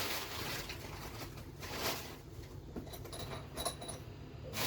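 Scattered light knocks, rustles and clinks of hand-handled objects. A brief metallic ring comes about three and a half seconds in, over a steady low hum.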